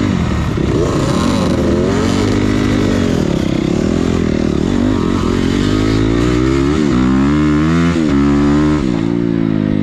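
Motocross dirt bike engine being ridden, its pitch rising and falling again and again as the throttle is worked, with a few sudden drops in the second half.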